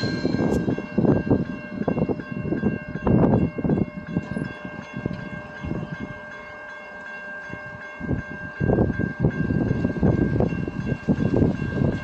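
Train on the tracks: an irregular low rumble that eases off a few seconds in and comes back near the end, under a faint steady high-pitched whine.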